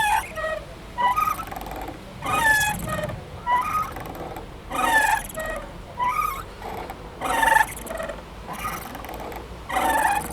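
A playground swing squeaking as it swings back and forth. Its chain or hanger pivot squeals at each end of the swing, about every 1.2 s, with louder and softer squeaks taking turns.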